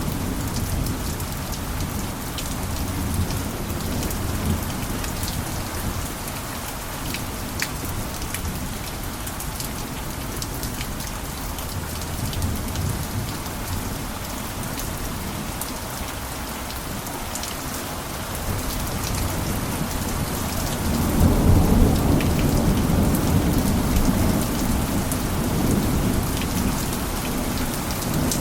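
Steady rain falling on a roof, with single drops ticking through the hiss. Low thunder rumbles faintly at first, then swells louder about three-quarters of the way through.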